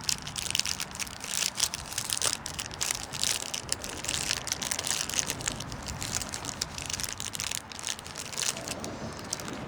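Crinkling and crackling of plastic packaging being handled and pulled at, a steady run of irregular crisp clicks.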